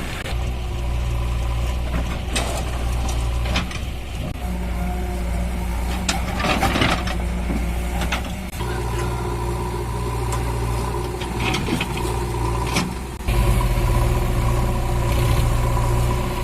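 Tractor diesel engine running steadily, with scattered knocks and clatter. Its note shifts about halfway through and steps up suddenly in loudness near the end.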